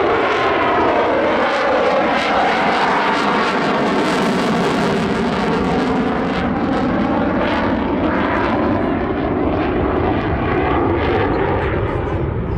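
RAF Typhoon's twin Eurojet EJ200 jet engines running loud and steady as the jet flies slow and nose-high at high angle of attack, with the pitch bands of the engine noise sweeping slowly down and back up.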